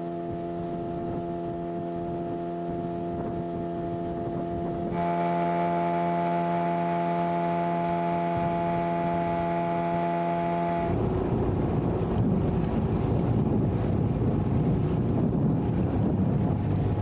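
Hidea 9.9 outboard motor running at a steady speed, an even unchanging hum that grows louder and brighter about five seconds in. About eleven seconds in the hum gives way to rushing wind on the microphone and water noise.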